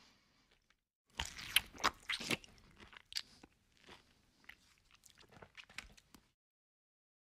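Close-miked chewing of a mouthful of rice and spicy duck curry: crunching and mouth clicks, loudest about a second in, then sparser and fainter, cutting off suddenly about six seconds in.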